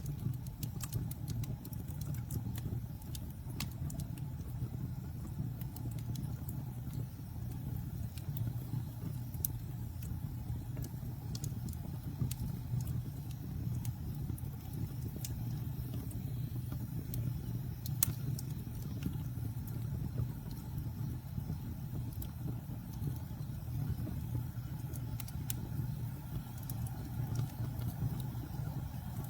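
Wood campfire burning: a steady low rumble with scattered sharp crackles and pops, the loudest pop about eighteen seconds in.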